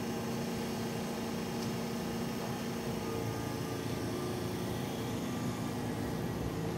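Ohmi Railway electric train at the platform, a steady electrical hum with two held tones coming from its equipment. Near the end it starts pulling away and a low rumble from the running gear grows.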